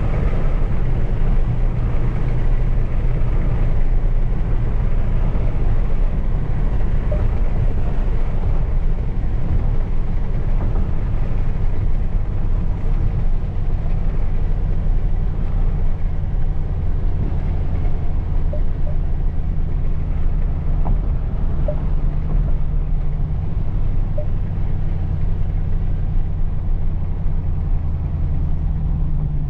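Dodge Challenger SRT Hellcat Redeye's supercharged 6.2-litre V8 running steadily with a low rumble.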